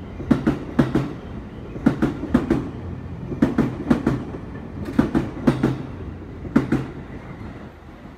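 Train wheels clicking over rail joints as the cars roll by at steady speed, the clicks coming in groups about every second and a half. The clicks stop about seven seconds in as the last car clears.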